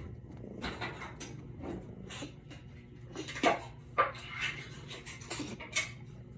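Light clinking and knocking of dishes being handled, an irregular run of small clicks with two sharper knocks about three and a half and four seconds in.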